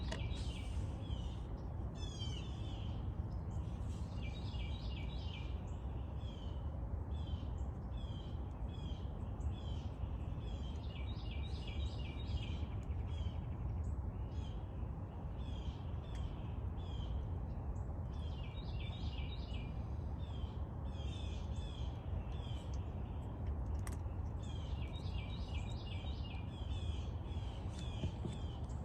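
Small birds chirping and trilling repeatedly, many short high calls in quick runs, over a steady low background rumble.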